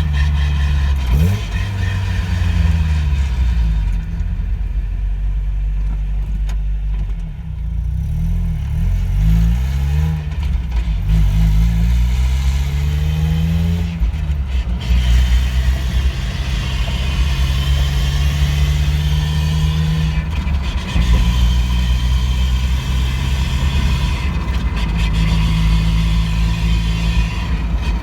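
NA Mazda Miata's four-cylinder engine and drivetrain on the move, revs climbing and dropping several times as it pulls through the gears, then holding steadier from about halfway. The drivetrain makes an unexplained noise that began after a differential change and was not cured by a new transmission.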